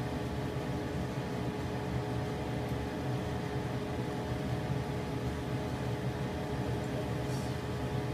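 Shredded potatoes frying in hot oil in a pan, a steady sizzle over the constant hum of a range hood fan.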